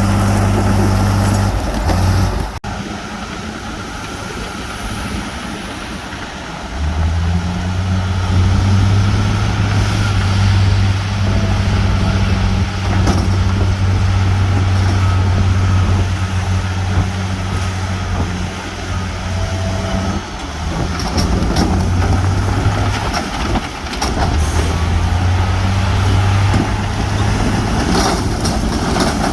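Diesel engine of heavy earthmoving machinery running, a steady low drone. It drops away suddenly about two and a half seconds in, stays quieter for a few seconds, and comes back louder from about seven seconds on.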